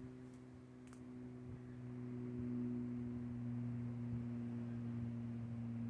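A steady low drone of a few held tones, growing louder and sliding slightly lower in pitch.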